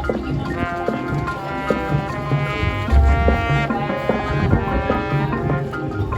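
High school marching band playing: held brass chords over marching drums, with repeated low bass-drum hits and snare and percussion strokes.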